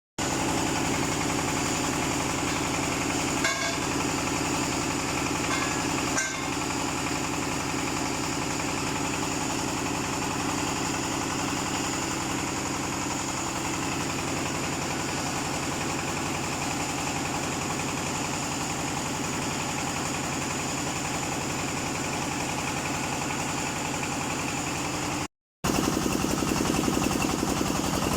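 The 25 hp diesel engine of a portable water well drilling rig running steadily, with two brief knocks a few seconds in and a momentary break in the sound near the end.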